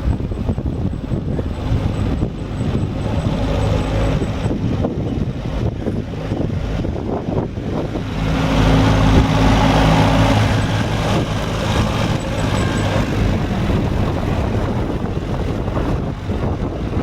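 Iseki compact tractor's diesel engine running steadily. It grows louder for a few seconds about eight seconds in, then settles back.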